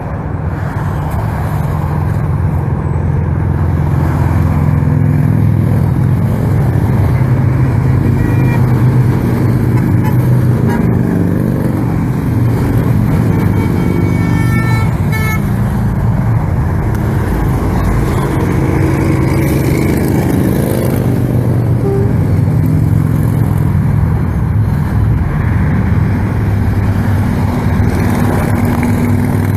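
Steady drone of a stream of motorcycles riding past in a long column, engines running continuously. About halfway through, a short run of horn honks sounds over the engines.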